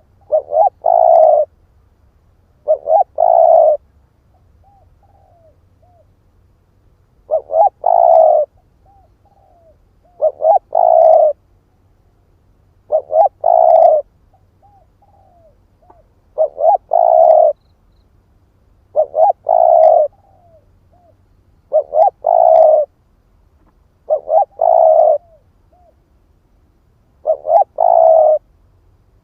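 Spotted dove cooing: ten phrases, roughly one every two and a half to three seconds, each a couple of short clipped notes followed by a longer coo. Fainter short coos sound in a few of the gaps.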